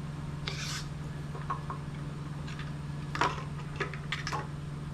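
Light clicks and knocks of metal parts being handled and pressed into place on an outboard lower unit's water pump, with a short scrape about half a second in, over a steady low hum.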